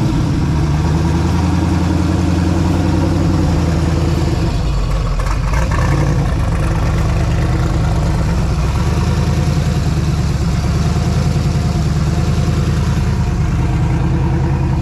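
Twin-turbo LS V8 in a Ford Mustang idling steadily just after start-up.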